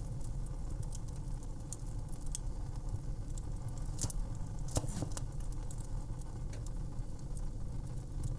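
Wood fire crackling: irregular sharp pops and snaps over a steady low rumble of burning, with a couple of louder pops about four to five seconds in.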